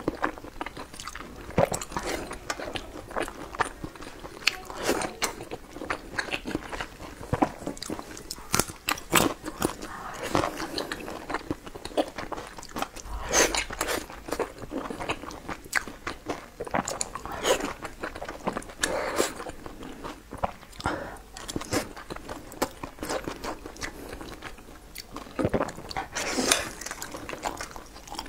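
Close-miked chewing of soft boiled dumplings dressed in chili oil: a dense, irregular run of short mouth clicks and smacks as she bites and chews.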